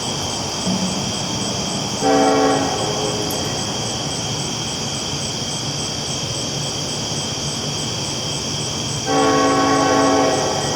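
Train horn sounding twice over the steady noise of a train rolling along the tracks: a short blast about two seconds in and a longer blast of about a second near the end, several tones sounding together.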